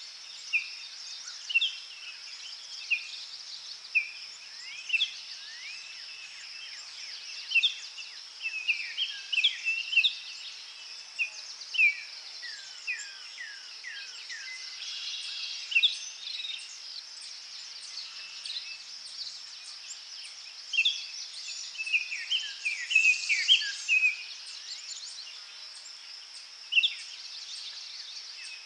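Forest birds singing in many short chirps and quick swooping whistles, busiest twice in the middle stretch, over a steady high insect buzz.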